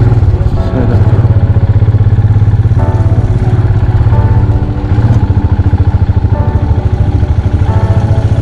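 Motorcycle engine running under way, a loud, steady low pulsing beat.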